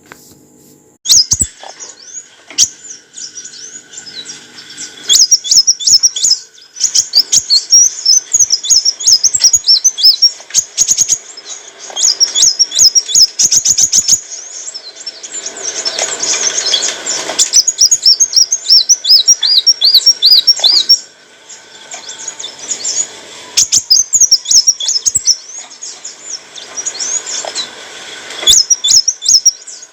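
Kolibri wulung sunbird singing: quick, high, repeated chirping and twittering phrases in bursts with short pauses.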